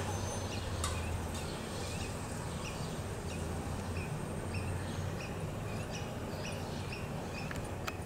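A bird calling in the background with short, high chirps repeated about twice a second, over a low steady hum.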